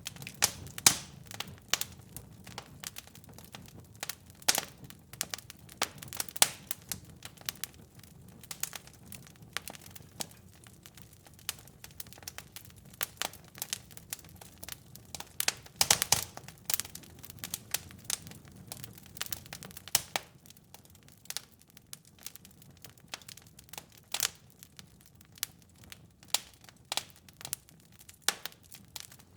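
Fire crackling in a fireplace: irregular sharp pops and snaps over a soft low rumble, with louder pops about a second in and about halfway through.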